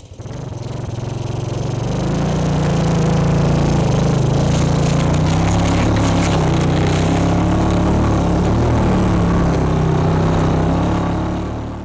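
Air-cooled four-wheeler (ATV) engine running under load while riding uphill, building over the first couple of seconds and then holding steady.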